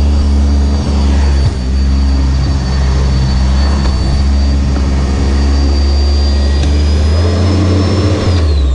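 Sanitaire SC679j upright vacuum cleaner running steadily with a high motor whine over a low hum. Near the end the whine drops in pitch as the motor is switched off and begins to wind down.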